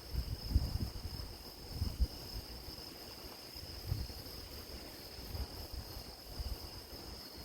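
Grass insects trilling in a steady, high-pitched chorus, with irregular low gusts of wind rumbling on the microphone.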